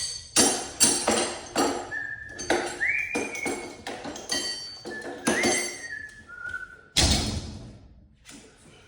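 A quick run of clinks and knocks, several ringing briefly, with a few short whistle-like notes around the middle and one heavier knock about seven seconds in, after which it goes quieter.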